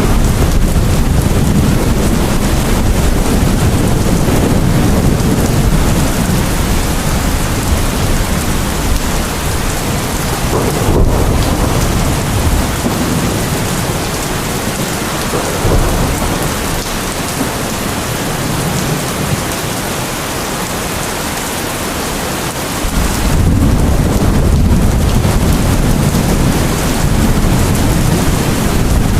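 Steady heavy rain with a low rolling rumble of thunder, which eases off midway and builds again about three-quarters of the way through.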